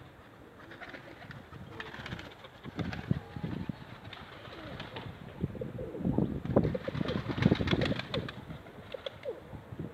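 Pigeons cooing, with a louder stretch of rustling and knocking about six to eight seconds in.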